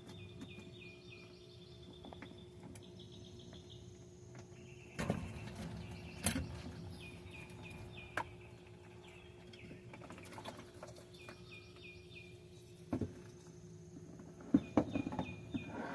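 A bird repeating a short high chirping call phrase several times over a steady low hum, with a few sharp metallic clanks of hand tools as the rear differential cover is unbolted, most of them near the end.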